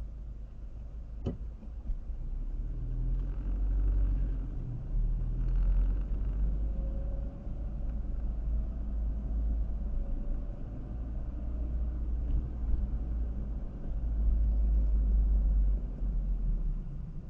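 Car driving along the road: low tyre and engine rumble that swells and eases, with one sharp click about a second in.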